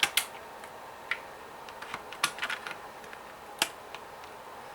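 A handful of scattered light plastic clicks and taps as a plastic Bakugan toy is worked free of the plastic strip and tray holding it in its box.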